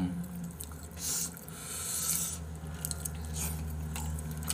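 A person chewing food close to the microphone, with short noisy bursts about one and two seconds in, over a low steady hum.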